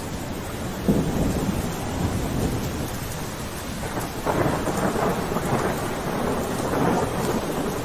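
Steady rain falling, under a low rolling rumble that swells about a second in and again about four seconds in.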